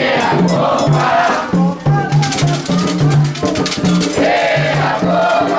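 Candomblé ritual music: drums beating a steady, repeating rhythm, a rattle shaking, and voices singing a wavering melody.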